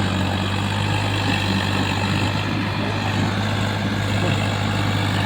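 Swaraj tractor's diesel engine running steadily with a low, even drone.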